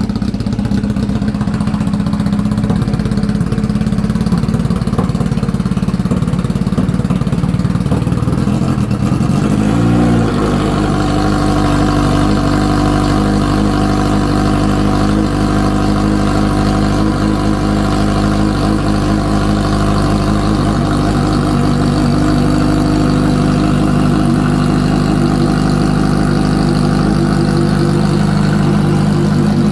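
A Kawasaki Ninja H2's supercharged inline-four runs just after a cold start. It is uneven for the first ten seconds, gives a brief rise and fall in revs about ten seconds in, then settles into a steady idle.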